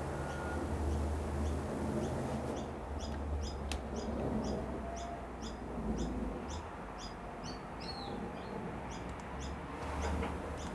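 A bird chirping repeatedly in short high calls, about two to three a second, starting a couple of seconds in, over a low steady hum.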